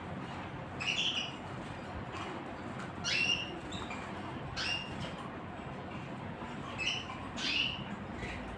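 Small wild birds chirping: a string of short, sharp calls every second or two, several dropping in pitch, over steady outdoor background noise.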